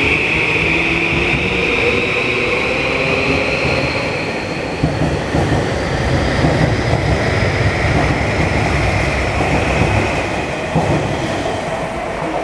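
Electric commuter train pulling away from a station: the motor whine rises slowly in pitch as it accelerates, over wheel rumble and clatter on the rails.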